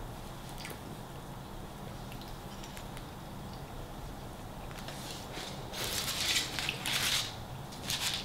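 Close-mic chewing of a sausage and egg muffin with faint wet mouth clicks, then, about five seconds in, several loud crinkles of the paper food wrapper.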